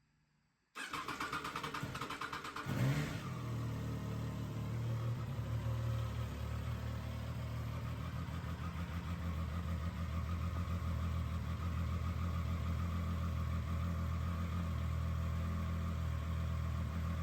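Triumph Tiger Sport 660's three-cylinder engine cranking on the starter for about two seconds, catching with a brief rev, then settling into a steady idle that cuts off suddenly at the end.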